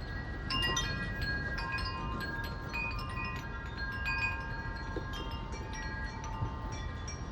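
Wind chimes ringing hard in strong, gusting storm wind, with many overlapping struck tones in quick succession over the low rumble of wind.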